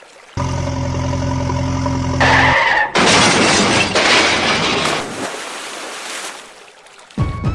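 Cartoon vehicle sound effects: a steady engine hum for about two seconds, then a loud, harsh noise burst that fades away over a few seconds. Music starts at the very end.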